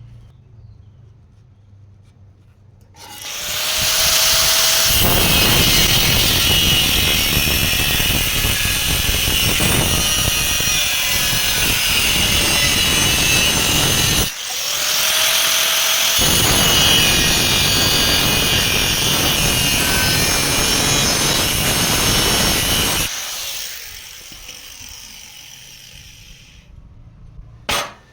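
A power tool running under load in two long runs of about eleven and nine seconds, with a short break between them. After the second run it winds down gradually.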